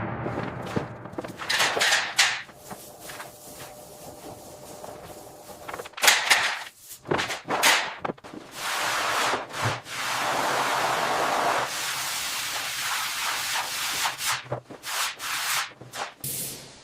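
Rough scraping and rubbing noises in irregular strokes, with a steadier hiss for a few seconds past the middle.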